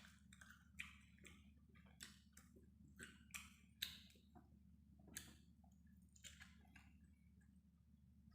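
A person eating siopao and pancit: faint, irregular chewing with mouth clicks and smacks every half second or so, over a low steady hum.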